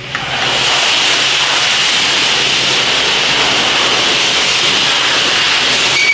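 High-pressure water spray at a truck wash, a loud steady hiss that comes up just after the start and holds for about six seconds.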